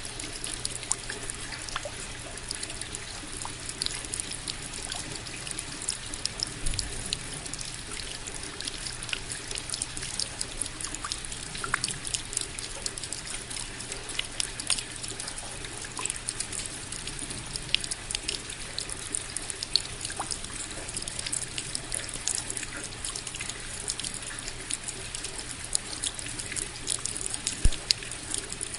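Steady rain falling, with many separate drops ticking and splashing close by over an even hiss of water.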